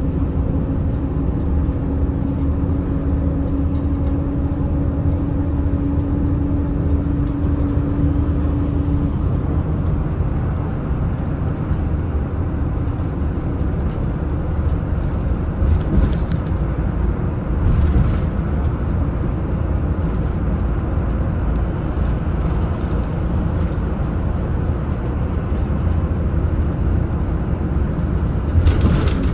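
Daewoo FX116 coach's diesel engine and road noise while driving at steady speed: a continuous low rumble with a steady whine that fades out about a third of the way through. There are a few short clatters, about halfway and near the end.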